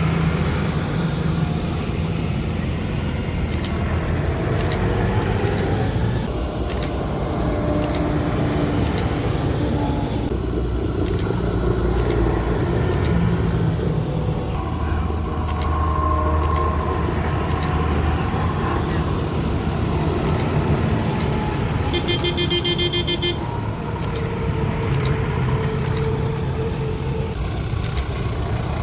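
Tractors driving past with engines running, with horns tooting now and then. About twenty-two seconds in, a rapid pulsing tone sounds for a second or so.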